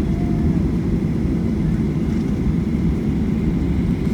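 Steady low rumble of a Boeing 737-800's cabin, heard from a passenger seat, with a faint steady high tone above it.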